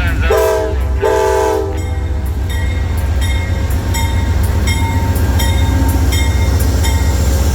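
Train horn sounding two blasts of under a second each, a chord of several tones, over the low rumble of a moving train. After that, wheels click over rail joints about twice a second as the cars roll by.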